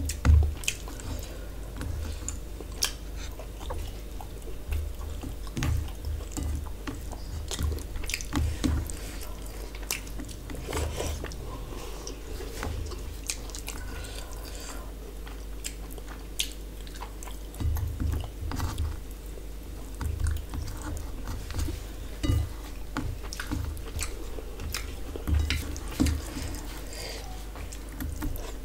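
Close-miked chewing and wet mouth sounds of a person eating rice with fish curry by hand. Fingers squish and click as they mix the food on a steel plate, and repeated low thuds come and go.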